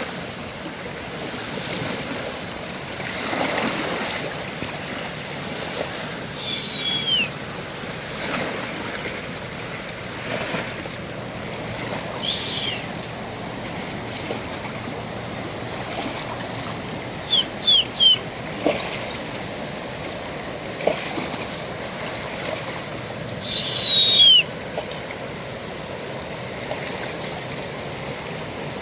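Birds calling: short, high whistles that slide downward in pitch, spaced a few seconds apart, and a quick run of three chirps about two-thirds of the way through, over a steady rushing background noise.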